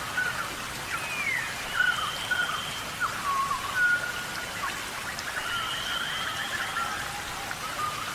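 Steady tropical rainforest rain with wildlife calling through it: many short whistles that slide up and down, and a few longer held tones.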